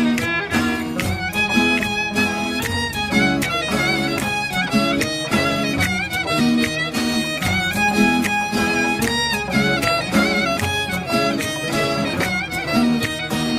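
Instrumental break in a Kurdish folk song: a fiddle-like bowed-string lead plays an ornamented melody with wavering pitch over a steady, even drum beat.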